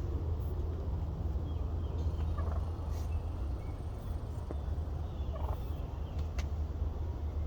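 Wild turkey gobbler gobbling faintly in the distance, twice, about two and a half and five and a half seconds in, over a steady low rumble.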